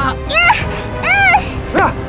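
Three short, high-pitched cries of effort from fighters, each rising and falling in pitch, over background music.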